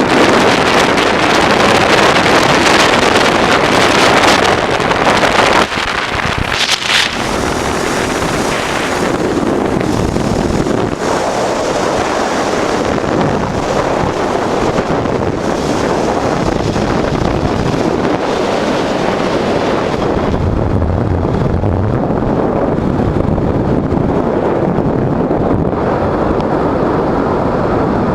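Wind buffeting the microphone of a moving motorcycle, a 1988 Honda Transalp V-twin, riding along at speed. The noise eases slightly about six seconds in.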